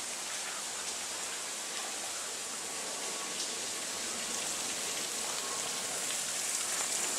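Spring water falling from the top of a cave entrance and splashing like rain, a steady hiss that grows slowly louder toward the end.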